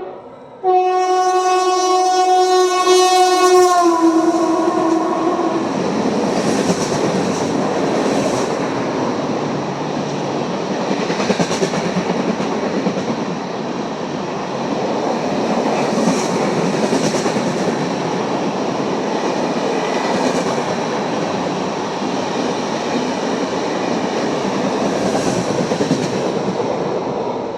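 WAP-7 electric locomotive's horn blaring, its pitch dropping as the locomotive passes, then the Netravati Express coaches rushing past at about 100 km/h with a steady rhythmic clatter of wheels over rail joints. The horn stops about six seconds in, and the rush eases off near the end.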